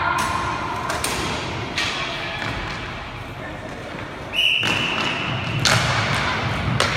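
Roller hockey play in a hall: sharp knocks and thuds of sticks and puck, several times, over a steady background din. A little past four seconds in, one steady high tone sounds for about a second, likely a referee's whistle.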